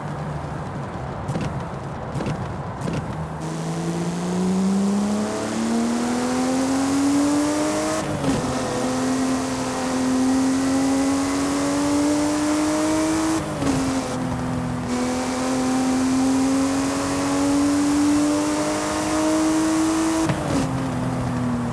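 Porsche Speedster's flat-six engine pulling under acceleration: the note climbs steadily, then drops back three times as it changes up a gear, each time climbing again.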